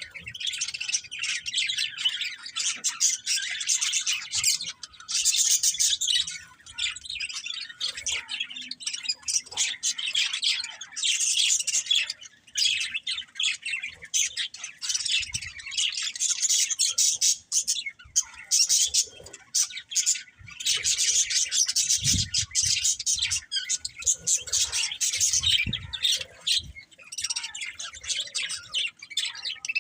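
Budgerigars chirping and chattering in a continuous stream of rapid, high-pitched notes, with only brief pauses. About two thirds of the way through there are a couple of soft low thumps.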